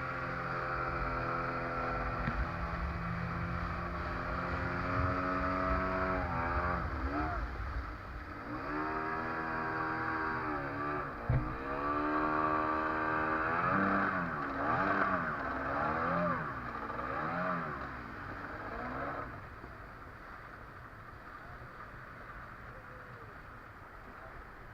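Motor of the boat towing a banana boat, running steadily at first, then its pitch rising and falling over and over as the throttle changes, before dropping to a quieter, steadier run near the end.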